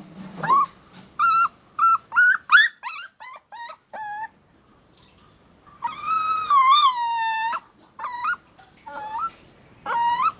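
Puppy whining and yelping: a quick run of short high-pitched cries, then a long drawn-out whine about six seconds in that drops in pitch at its end, then a few more short cries near the end.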